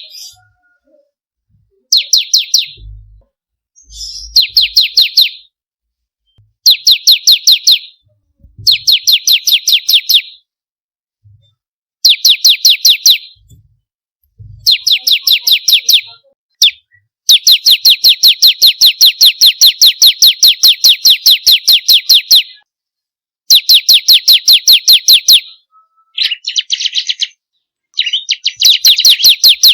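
Bar-winged prinia (ciblek kristal) singing: repeated bursts of rapid, evenly spaced sharp notes, about six a second, each burst a second or two long with short pauses between, and one run lasting about five seconds. Near the end come buzzier, harsher phrases.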